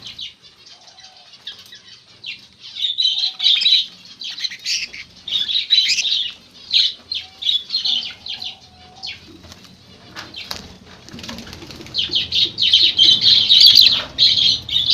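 Budgerigars chirping and chattering in bursts, with wings flapping and fluttering as the birds move about the breeding aviary.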